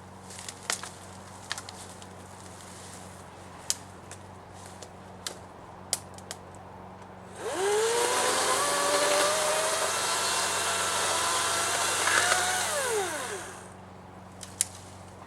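Battery-powered electric chainsaw spinning up with a rising whine, running steadily for about six seconds with a brief dip in pitch, then winding down. Before it, a few sharp clicks and knocks.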